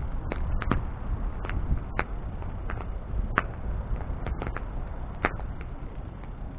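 Wood bonfire burning: a steady low rush of flame with sharp, irregular crackles and pops from the burning wood, about a dozen in the span.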